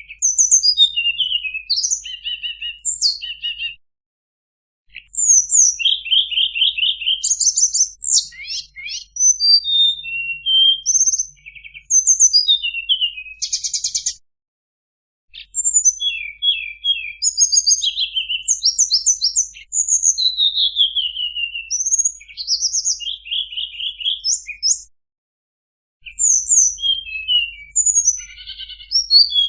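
Recorded tledekan songbird song played as a bird-lure call: rapid, varied high chirps, whistles and trills in long phrases, cutting out completely three times for about a second.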